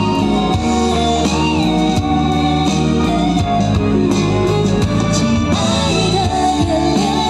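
Live band playing an instrumental passage of a pop song: drums, a bass line, sustained keyboard chords and guitar.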